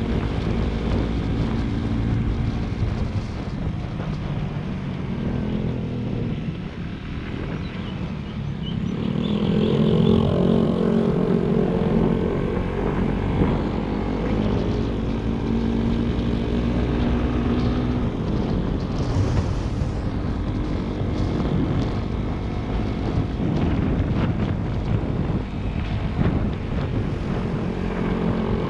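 Motorcycle engine running under way, its pitch rising and falling as the revs change, louder from about nine seconds in.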